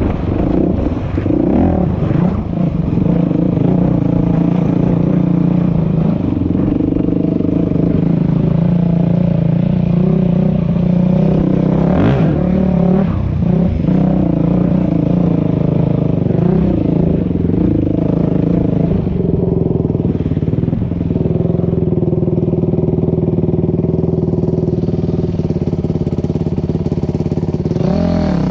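Dirt bike engine running steadily on a trail ride, its pitch rising and falling with the throttle, with a sharp knock about halfway through and revving up near the end.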